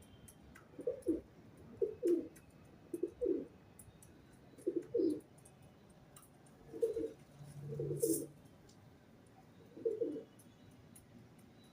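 Pigeon cooing: a series of short, low coos, often doubled, about one every second or two.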